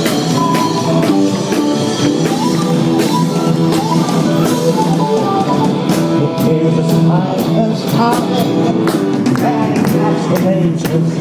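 Rock band playing live, an instrumental passage: drums keeping a steady beat under a sustained bass and a lead melody that bends in pitch.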